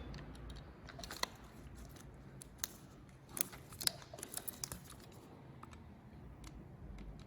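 A blunt blade slowly cutting a rubber handlebar grip, giving scattered small snips, scrapes and clicks, more of them in the middle, as it barely bites.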